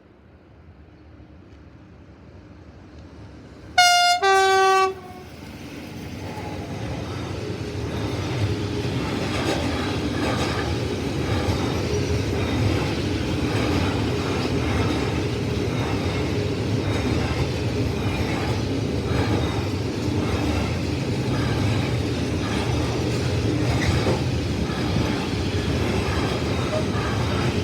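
A train approaches and gives a two-tone horn blast about four seconds in: a short high note, then a lower note. It then runs past close by with a steady rumble and repeated clatter of its wheels over the rail joints.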